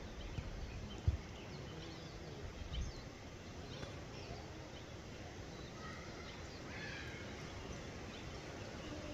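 Faint forest birdsong: scattered short chirps and quick whistled notes from Hawaiian forest birds, with a single low thump about a second in.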